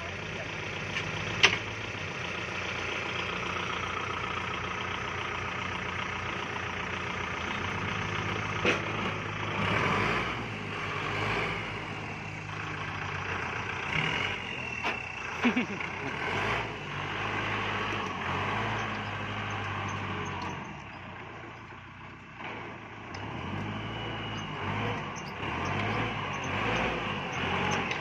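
Diesel farm tractor engine running, its note rising and easing as the tractor works in deep mud, with a few sharp clicks.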